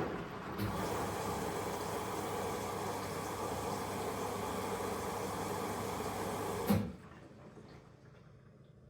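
Elin washing machine on its final rinse, with water hissing in through the inlet valve; it starts with a click about half a second in and stops abruptly with a knock about two seconds before the end.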